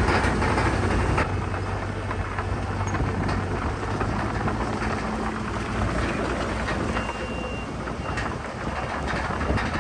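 Heavy diesel earthmoving machinery (bulldozer and dump trucks) running with a steady low engine drone, and many scattered clanks and rattles over it. A brief high beep sounds about seven seconds in.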